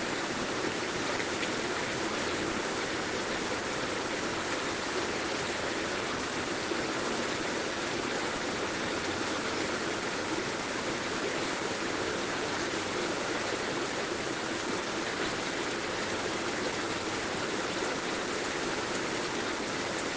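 Heavy rain falling steadily, a dense, even wash of noise with no let-up.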